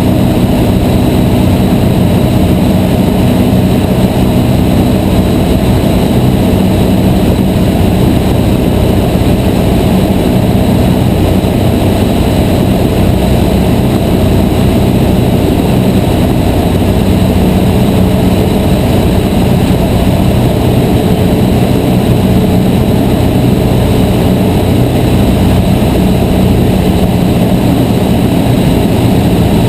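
Cessna 152's four-cylinder Lycoming O-235 engine and propeller running at a steady drone in flight.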